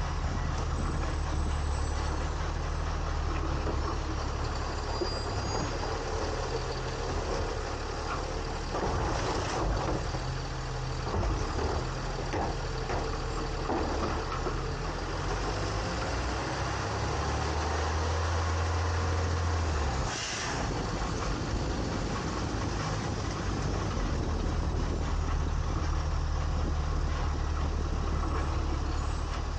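Refuse truck engine running steadily, heard from inside the hopper, its low hum growing stronger for a few seconds before a brief sharp sound about twenty seconds in. A few other short knocks and hisses come around ten seconds in.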